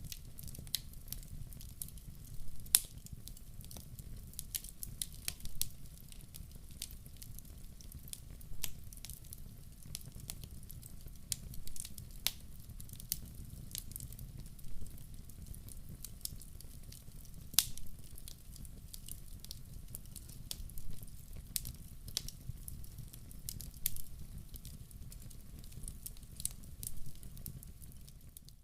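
Logs burning in a wood-burning stove: irregular sharp crackles and pops, a few louder ones, over a low steady rumble of the flames, fading out at the very end.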